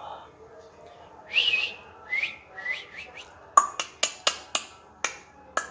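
Pet parrot giving a few short, sliding whistled calls, followed by a quick series of about eight sharp clicks in the second half.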